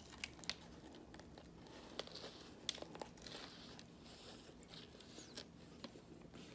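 A person chewing a bite of an omelette burrito with hash browns and sausage in a flour tortilla: faint chewing and crunching with scattered sharp clicks.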